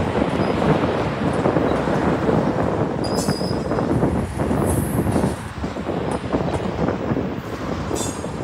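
Freight train rolling past at speed: boxcars and centerbeam flatcars loaded with wrapped lumber rumbling and rattling over the rails, with a brief high wheel squeal about three seconds in.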